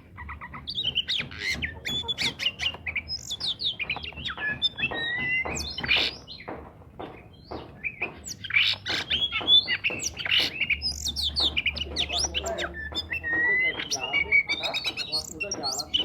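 Oriental magpie-robin in full song: a continuous, varied stream of rapid whistles, chirps and trills.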